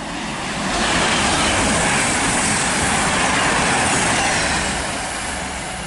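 CrossCountry Class 221 Voyager diesel multiple unit passing through the station without stopping: a rushing noise of wheels and air that builds over about a second, holds, then fades away as it goes by.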